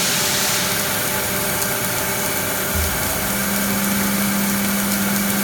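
Twin-head submerged-arc circular welding machine running: a steady hiss with an electrical hum that grows much louder a little past halfway, just after a brief low thump.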